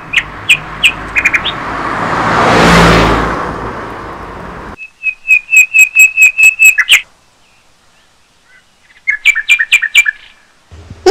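Small bird chirping in quick runs of short, high, repeated notes, over a whoosh that swells to a peak about three seconds in and then cuts off.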